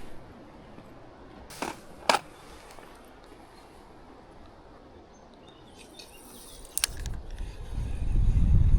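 Two sharp knocks, then a low rush of wind that swells near the end and buffets the microphone.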